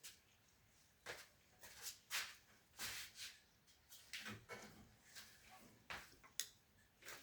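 A series of short, irregular rustling and knocking noises with a sharp click near the end, like something being handled.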